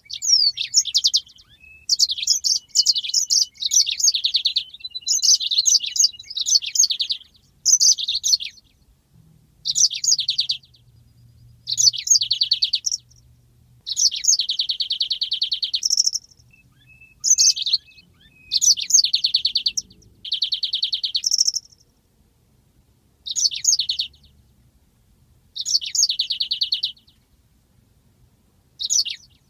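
Yellow-fronted canary (Mozambique canary) singing in short, rapid phrases separated by brief pauses. Several phrases are drawn out into long, even trills, the 'rolls' prized in this song.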